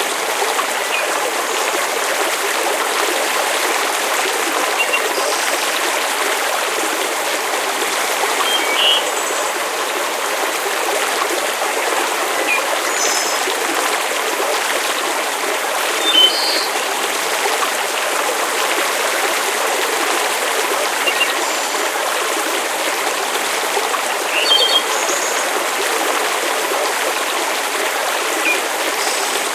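Steady, even rushing hiss of rain-and-water nature ambience, with a few faint, sharp little pops or ticks scattered through it, the clearest about halfway through and again near the three-quarter mark.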